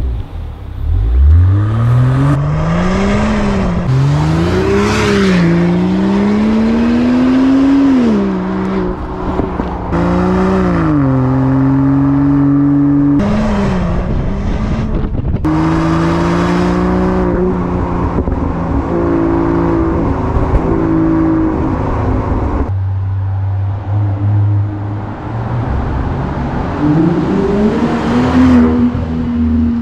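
Land Rover Defender P400's inline-six engine through a stainless-steel Quicksilver exhaust, accelerating and revving, its note climbing and dropping again and again as it goes through the gears. The sound changes abruptly a few times, settles briefly to a lower steady note, then climbs once more near the end.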